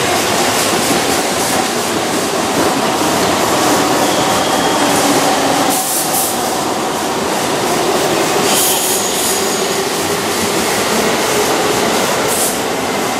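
Keihan 2600-series electric train running round a curve and away, a steady rumble of wheels on rails with brief high-pitched wheel squeals now and then.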